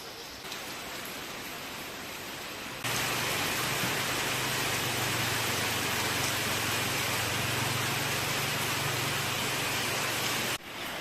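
Storm rain falling in a steady hiss; about three seconds in it becomes a much louder downpour with a low rumble underneath, which cuts off suddenly near the end.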